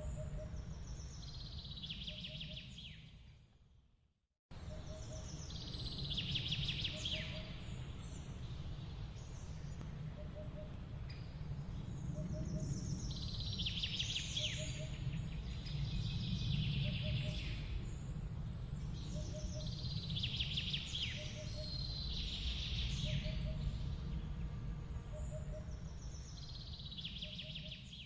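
Birds chirping in repeated bursts over a steady low rumble, with a soft, regular low pip about every second and a half. The sound fades out about three seconds in and cuts back in a moment later.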